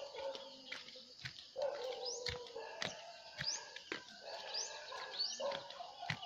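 Birds calling: a short upward-sweeping chirp repeated about once a second, with lower calls of about a second each in between, and a few sharp clicks.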